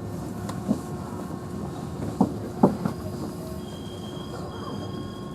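Inside a JR Central 311-series electric train rolling slowly, with thin steady wheel squeal over the rumble and a few sharp knocks from the wheels over rail joints or points, about a second, two seconds and two and a half seconds in.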